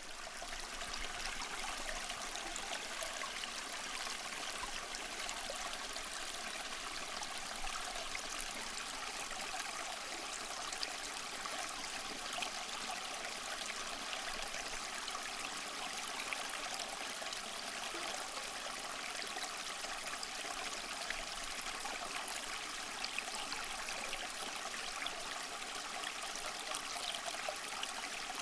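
Water trickling steadily down a homemade tabletop waterfall fountain, circulated by a small submersible pump.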